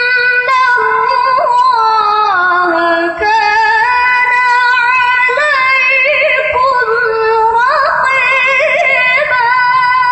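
A Quran reciter chanting in a high, melismatic tilawah style, holding long ornamented notes that wind down in pitch and climb back up.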